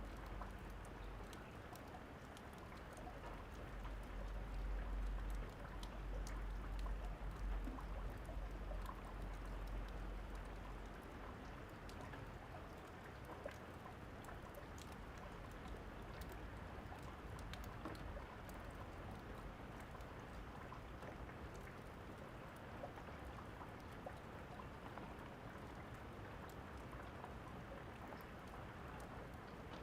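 Steady rain with scattered light crackles throughout. Thunder rumbles low through roughly the first ten seconds, swelling a few seconds in and then fading.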